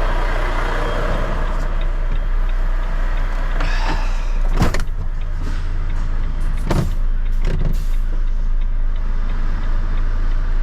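Semi-truck diesel engine idling steadily while the hazard-light flasher ticks faintly and evenly. There is a sharp bang about four and a half seconds in and a few lighter knocks around seven seconds.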